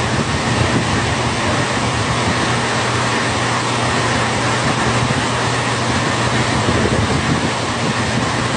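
Heavy rain falling steadily, a dense, even wash of noise.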